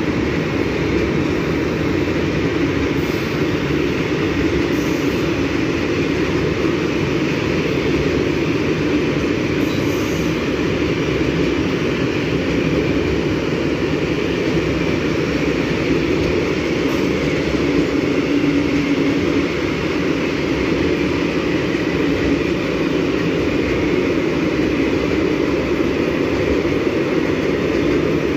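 A train rolling past on the rails, the steady noise of its wheels and wagons going on without a break.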